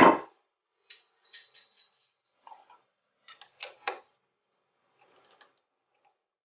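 Light clicks and knocks as a wooden Iroko platter blank is handled and turned onto a worm screw on the lathe. They come in several short clusters, with the strongest about three and a half to four seconds in.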